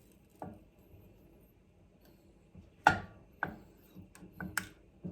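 Sharp clicks and knocks of kitchen utensils and containers being handled and set down, several in a row, the loudest just before three seconds in.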